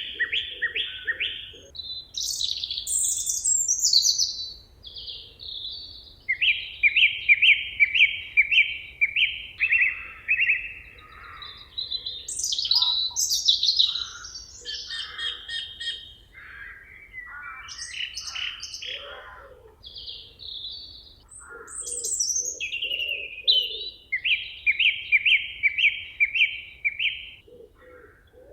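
A songbird singing a varied song in the forest: phrases of quick repeated notes and trills, each followed by a short pause before a different phrase.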